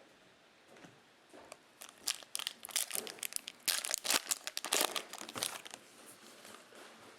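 Foil trading-card pack wrapper crinkling as it is torn open and handled, in a run of sharp crackles about two seconds in that die down near the end.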